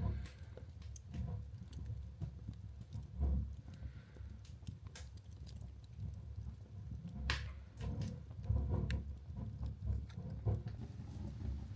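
Wood briquette fire burning in an open fireplace: a low rumble of flames with irregular crackles and pops, the sharpest pop about seven seconds in.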